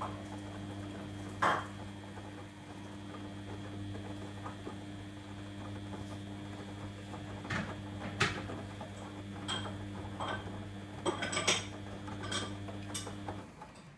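Washing machine drum motor humming steadily as the drum turns mid-wash, with scattered light clinks and taps from the tumbling load. The hum stops a little before the end.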